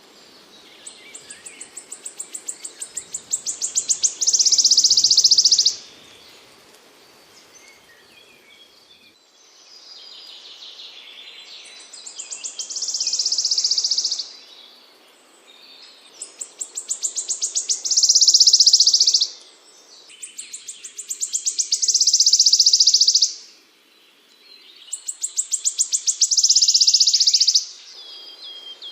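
Recorded song of a small songbird played for masteran training: about five repeated phrases, each a rapid series of high notes that speeds up and gets louder into a dense, buzzy trill, with short pauses between.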